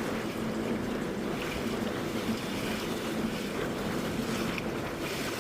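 Steady low motor hum under wind noise on the microphone and rushing water.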